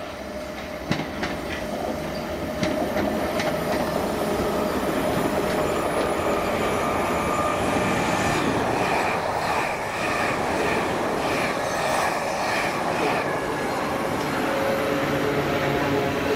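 Non-stopping passenger train running through the station, its wheels clattering over the rail joints. It grows louder about a second in, and midway through gives a run of rhythmic clacks, about two a second.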